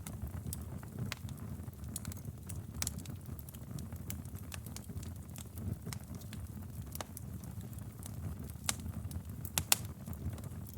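Wood fire crackling in a fireplace, with a steady low rumble of flames under irregular sharp pops and snaps. A cluster of louder pops comes near the end.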